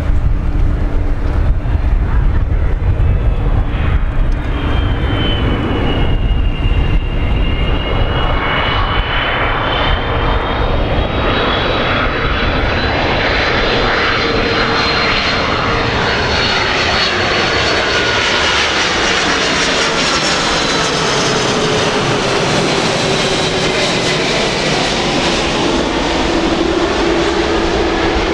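Airbus A330-300 airliner on landing approach flying low overhead, its jet engines a steady loud roar with a high whine that climbs as it nears and then slides down in pitch as it passes, toward the end. Low wind rumble on the microphone early on.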